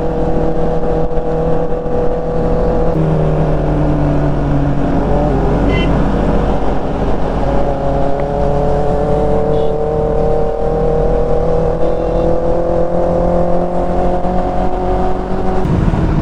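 Motorcycle engine running under way, heard over wind noise. The engine note shifts about three seconds in, then climbs slowly as the bike accelerates, and changes again near the end.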